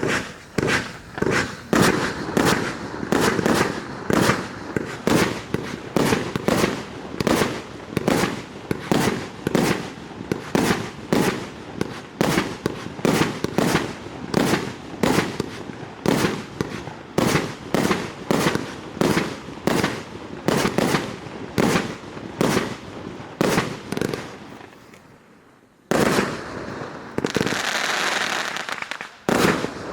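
Multi-shot consumer firework cake firing a long run of sharp shots, about two a second, that fade after about twenty-four seconds. After a short lull comes a few seconds of steady rushing noise, then another shot near the end.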